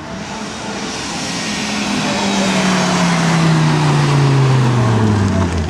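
A car driving past at speed: its engine note swells and falls steadily in pitch as it goes by, loudest about four to five seconds in.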